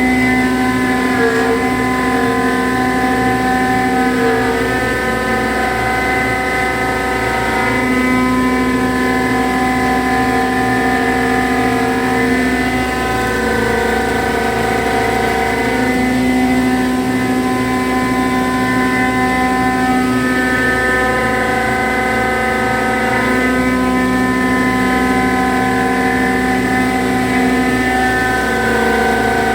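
CNC milling machine rough-milling aluminium alloy with a 25 mm cutter: a loud, steady whine made of several tones, whose pattern shifts about every four seconds.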